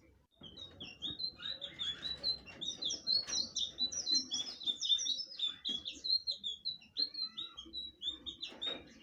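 Blue flycatcher (sikatan biru) singing a fast, unbroken twittering song of short, high, down-slurred notes. It starts about half a second in and stops near the end.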